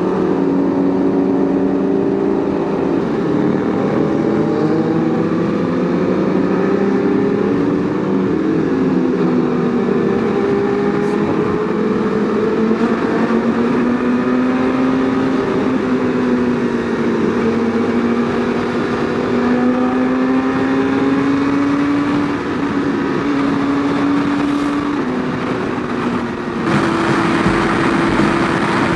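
Superbike engines running on the move, their notes rising and falling gently with the throttle over a steady rush of wind and road noise. About three-quarters of the way through the sound turns abruptly brighter, and one steady engine note holds.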